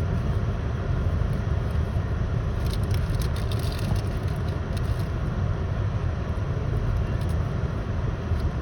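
Freight train of coal cars rolling past: a steady low rumble of wheels on rail, with a few metallic clicks and rattles about three to five seconds in.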